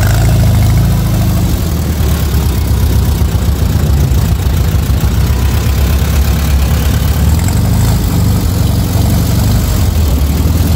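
Car engine idling with a steady, low, pulsing rumble.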